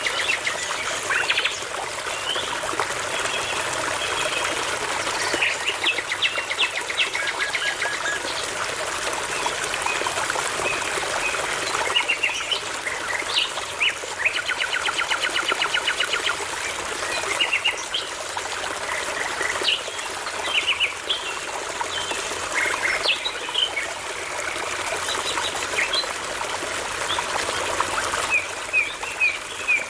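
Songbirds singing in short, varied phrases of trills, fast runs of repeated notes and whistles, over the steady rushing and trickling of a small brook.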